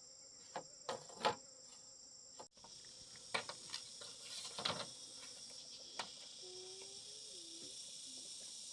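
Steady high-pitched chirring of an insect chorus, with a few sharp knocks and clicks scattered through the first half. The insect sound breaks off abruptly about two and a half seconds in and resumes at a different pitch.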